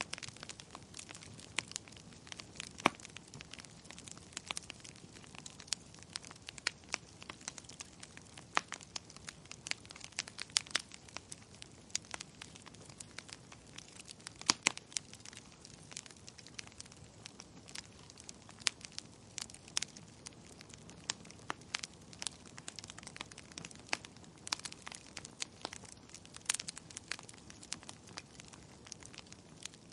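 Wood fire in a fireplace crackling, with irregular sharp pops and snaps over a low steady hiss.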